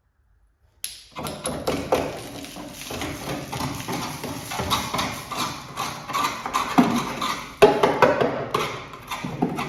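Irregular knocking and clattering, starting suddenly about a second in after silence.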